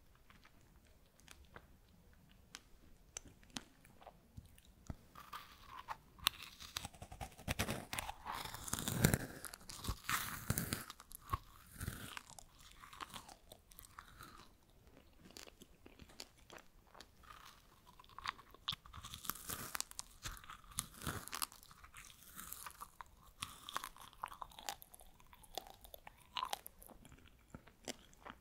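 Freeze-dried strawberries being bitten and chewed, a dry, crisp crunching made of many small crackles. The crunching comes in two dense spells, with a quieter stretch of softer chewing between them.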